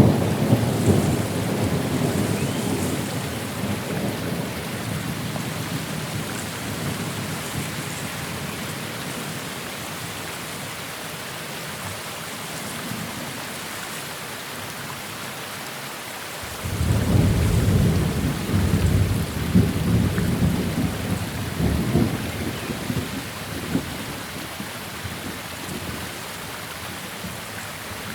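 Steady rain with a thunderstorm: a roll of thunder dies away over the first several seconds, then a new peal breaks suddenly about 16 seconds in and rumbles on in several swells for about eight seconds.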